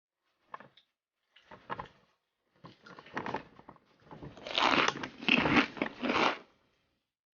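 Someone biting into and chewing a homemade chocolate chip cookie, in a few irregular bursts that grow louder toward the end.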